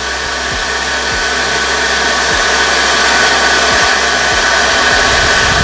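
Forge air blower running steadily, a loud even rush of air with a faint whine, swelling slightly in level as the fire burns hot.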